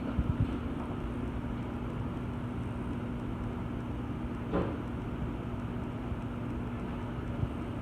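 Stacked front-loading washer and dryer running: a steady motor hum over a low rumble, with a few short knocks just after the start and a brief clunk about halfway through.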